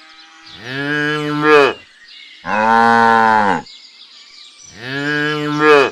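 A cow mooing three times, each call about a second long with short pauses between.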